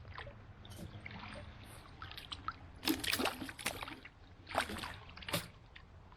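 River water splashing and sloshing in two short clusters, about three seconds in and again near five seconds, over a low steady background.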